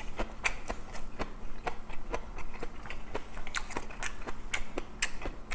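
A person chewing a mouthful of food close to the microphone: irregular wet mouth clicks and smacks, about three a second.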